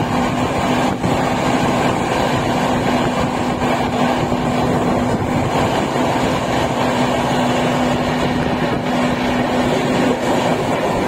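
Freight train of open-top steel wagons running past on the adjacent track: a steady rumble and clatter of wheels on rails, with a steady low hum underneath.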